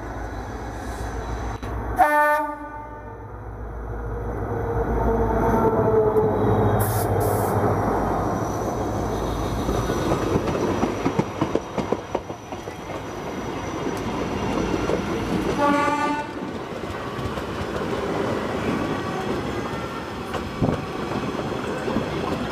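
WDP-4D diesel-electric locomotive passing at speed: a short horn blast about two seconds in over the deep rumble of its EMD 16-cylinder two-stroke engine. Then the passenger coaches clatter past, their wheels clicking over the rail joints, with a second short horn note a little over two-thirds of the way through.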